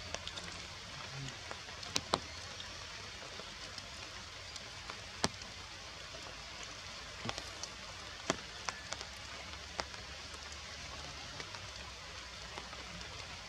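Rain falling on forest foliage: an even hiss with scattered sharp drips and taps, the loudest about two and five seconds in.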